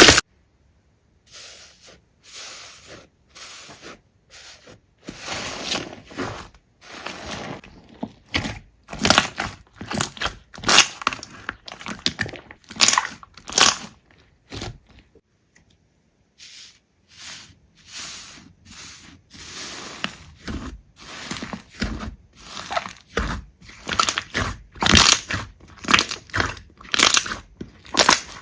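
Hands squeezing, pressing and stretching a large slime, making a run of short, irregular sounds, with one loud sharp one at the very start and a pause of about three seconds around the middle.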